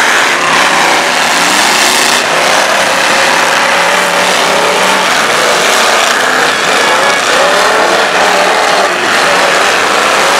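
Several demolition derby cars' engines revving hard, their pitch rising and falling over and over as the cars ram and push one another, over a thick wash of engine and crowd noise.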